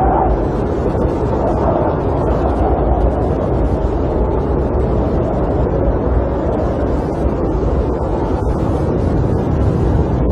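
Snowstorm wind against a camper, heard from inside: a steady low rumble with slow swells and faint scattered ticks.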